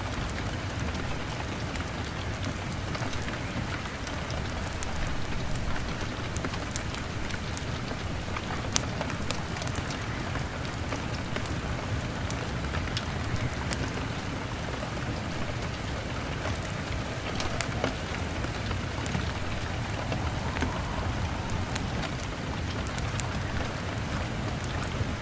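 Steady rain on a window, with scattered sharp crackles and ticks from a log fire over a low, even rumble.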